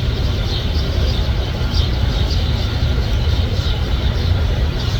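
Steady low outdoor rumble, with faint short high chirps of small birds scattered through it.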